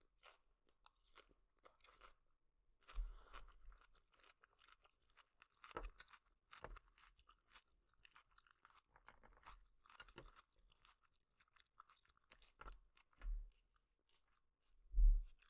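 Close-miked chewing and wet mouth sounds of a person eating spicy noodles: scattered small clicks and brief chewing bursts, the loudest one near the end.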